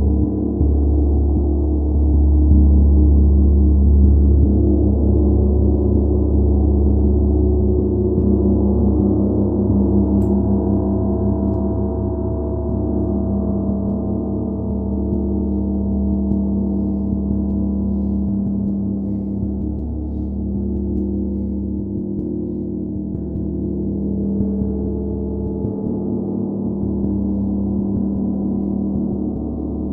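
A gong ringing continuously as a deep, sustained wash of many overlapping low tones, easing slightly in loudness over the first twenty seconds.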